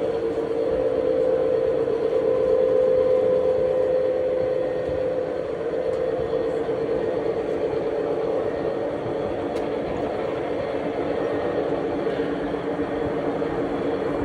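A train running, a steady drone with a noisy rumble, swelling slightly a couple of seconds in.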